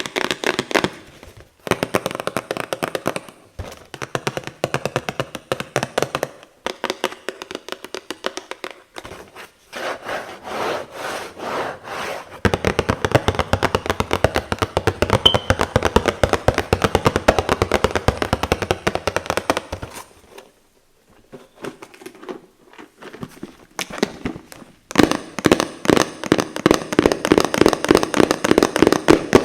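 Rapid tapping and scratching on boxes, fast runs of many taps a second broken by short pauses, with the longest pause about twenty seconds in.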